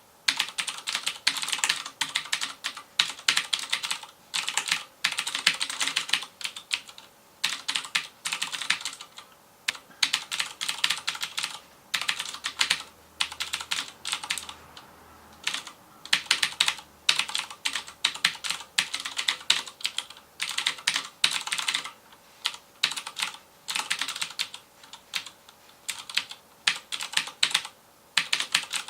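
FILCO Majestouch Convertible 2 mechanical keyboard with Cherry MX Blue switches being typed on fast, the clicky keystrokes coming in quick runs with short pauses between them.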